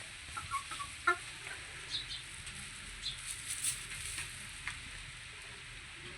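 Hens making short, scattered clucks and chirps over a steady background hiss.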